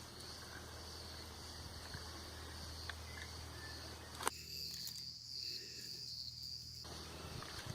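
A steady, high insect chorus, likely crickets, against a rustling background. A single sharp click sounds about four seconds in.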